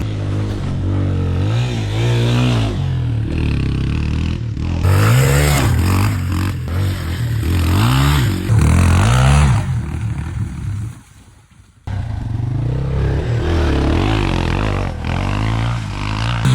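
Dirt bike engine revving up and down over and over, rising and falling in pitch several times in quick succession. It drops out for about a second near two-thirds of the way through, then resumes.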